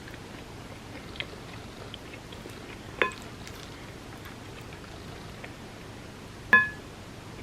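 A spoon clinks against a dish twice, each clink ringing briefly, with soft eating sounds in between.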